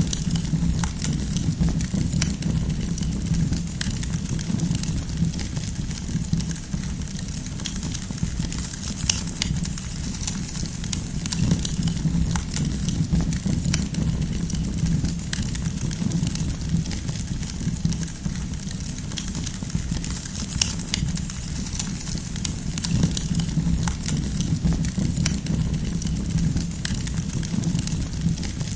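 Wood campfire burning: a steady low rumble of flames with frequent sharp crackles and pops from the burning firewood.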